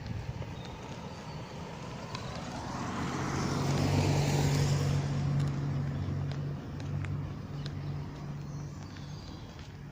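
A motor vehicle passing by: tyre and engine noise swells to a peak about four seconds in and then fades, with a low engine hum carrying on after it.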